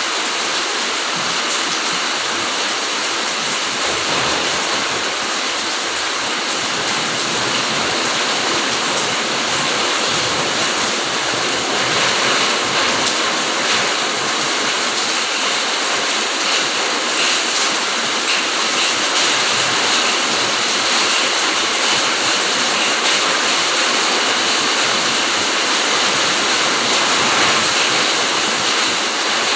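Steady heavy rain falling, an even dense hiss of drops with no let-up.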